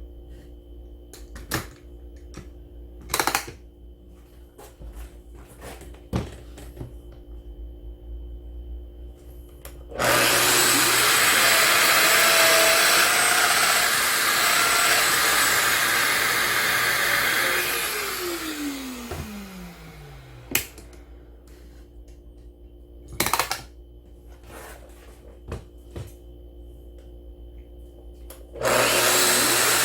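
Handling clicks and knocks, then an electric power tool's motor starts about ten seconds in, runs steadily for about seven seconds, and winds down with a falling pitch. A few more knocks follow before the motor starts again near the end.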